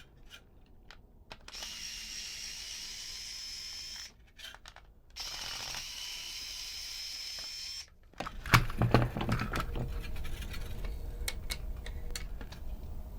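Small electric screwdriver whirring in two steady runs of a couple of seconds each, backing out screws to open the toy RC truck's plastic body, followed by a clatter of clicks and knocks as the plastic parts and screws are handled.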